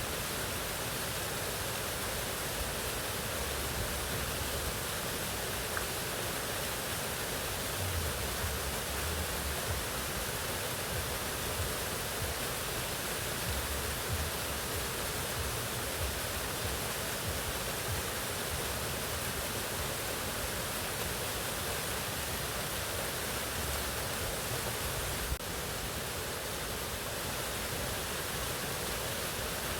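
Mountain waterfall: water falling and rushing in a steady, unbroken hiss.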